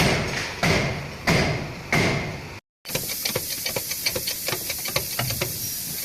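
Hammer blows on metal: four heavy strikes about two-thirds of a second apart, each ringing briefly. After a short break, fainter rapid irregular clicking follows.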